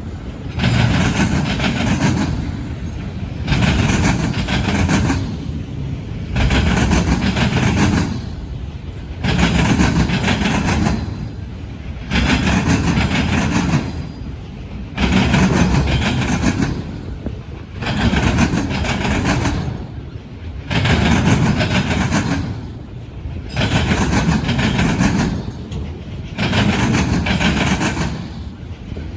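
Long freight train rolling over railroad diamonds, the cars' wheels pounding the crossing in a loud surge about every two seconds, with quieter stretches between.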